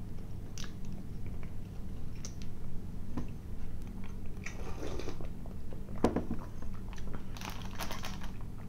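Close-miked mouth sounds of a man chewing a cream-filled pastry, with a sip of tea about halfway through and a rustle of foil wrapping near the end.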